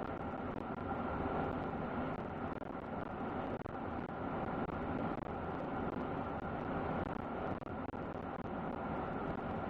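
Steady road and engine noise of a pickup truck driving along, heard from inside the cab.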